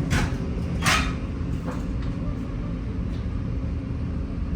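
Steady low mechanical rumble, like a vehicle running, with two short hisses about a second apart near the start.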